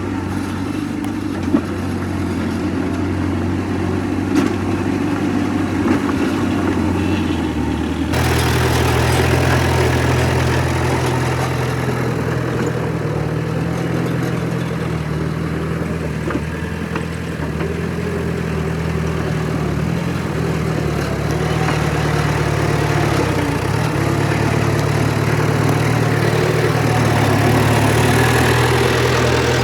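Heavy earthmoving machine's diesel engine running steadily with a deep, even hum. About eight seconds in, the sound shifts abruptly and grows louder and fuller. A few short knocks come in the first six seconds.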